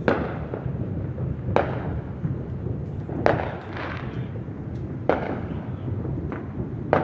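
Fireworks going off: a sharp bang roughly every two seconds, each trailing off briefly, over a steady low rumble.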